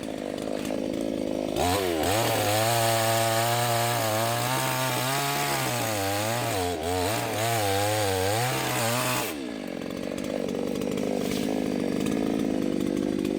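Small low-cost two-stroke chainsaw cutting wood, its engine speed rising and sagging under load for several seconds. It then runs on at a lower, steadier note and cuts off suddenly near the end.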